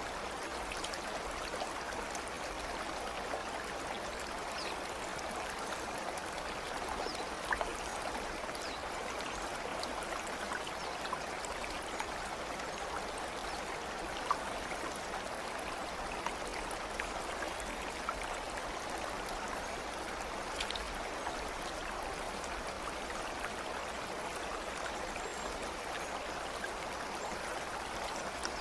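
Steady flowing-water sound of a stream running over stones, even throughout, with faint scattered ticks and droplet sounds.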